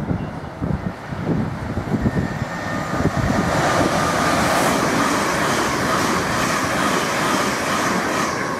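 Electric multiple unit running through the station: the rush of wheels on rail grows from about three seconds in, then holds loud and steady as the train passes close by, with a faint steady whine. Before it, wind rumbles on the microphone.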